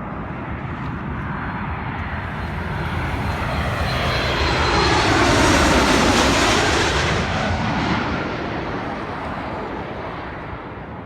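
An airliner passing low overhead. The engine noise builds to its loudest about halfway through and then fades, and its pitch drops as the plane goes past.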